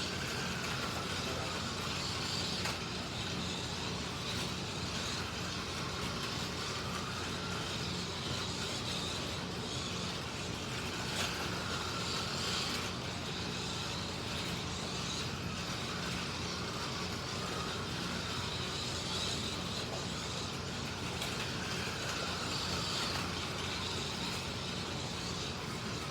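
Slot cars lapping the track. Their small electric motors whine, the pitch rising and falling every few seconds as they speed up and slow down, over a steady low rumble.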